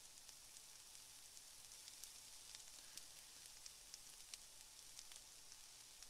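Faint sizzling of food frying in a pan: a steady high hiss with scattered small crackles and pops.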